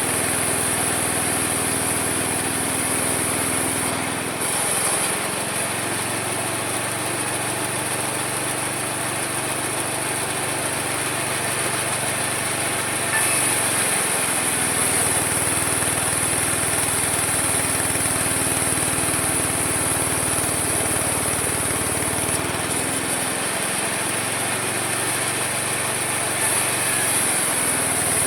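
Homemade mini sawmill running steadily while sawing wood. Its engine-like note shifts a few times as the load on the blade changes.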